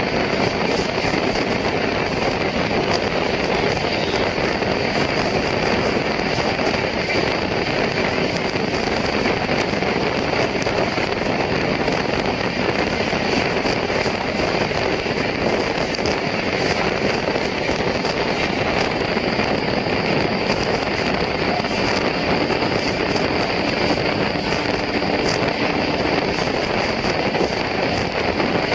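Steady running noise of a moving passenger train: an even rumble and rush of wheels on rails, unchanging throughout.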